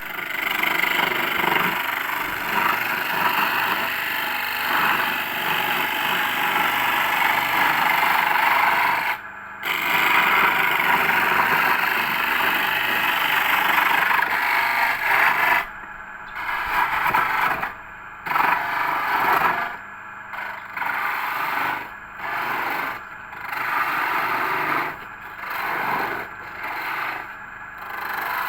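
Homemade lathe at work, a cutting tool scraping against the spinning workpiece: a long continuous scrape with one brief break, then short repeated passes about once a second.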